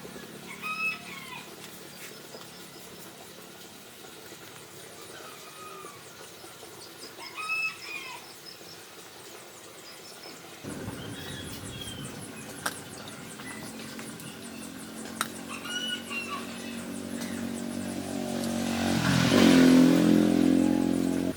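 Chickens clucking, a short call every few seconds. A few sharp clicks come in the second half, and a louder sound swells and fades near the end.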